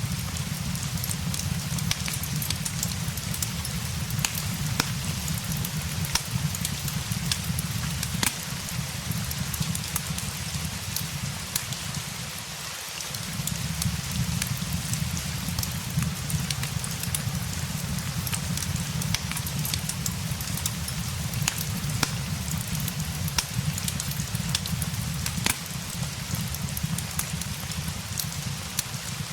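Steady rain pattering, mixed with a fireplace crackling in scattered sharp pops, over a low rumble that drops out briefly about halfway through.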